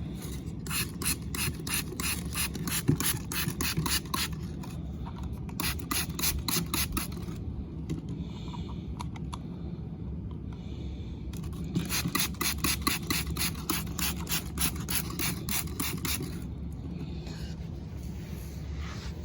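Rapid back-and-forth scrubbing of a small plastic toy car, about four strokes a second, in three spells with short pauses between. A steady low hum runs underneath.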